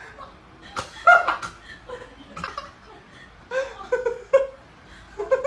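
A person laughing in short bursts of giggles, three times.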